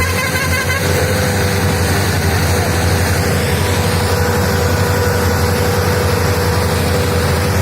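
Preet 6049 tractor's diesel engine running steadily with a deep, even rumble and a constant hum.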